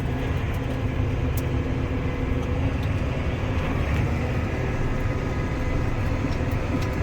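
Case 140 tractor's diesel engine running steadily as the tractor drives along, heard from inside the cab as an even low rumble.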